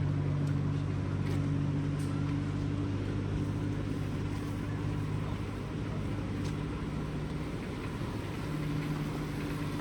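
A vehicle's engine idling close by: a low, steady hum whose pitch does not change, over the even hiss of rain.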